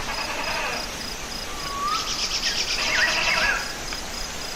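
Crickets chirping in a steady, evenly pulsing high rhythm, with birds singing over them: a short rising whistle about a second and a half in, then quick chirping trills and whistles around two to three seconds in.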